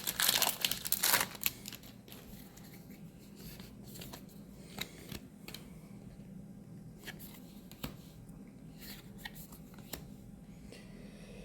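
A Magic: The Gathering booster pack's foil wrapper crinkling and tearing open for about the first second and a half, then quiet handling of cards with a few faint clicks.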